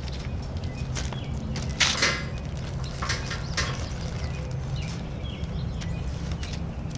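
Rubber bands being stretched and snapped around a watermelon: several short, sharp snaps a second or so apart, the loudest about two seconds in, over a steady low hum.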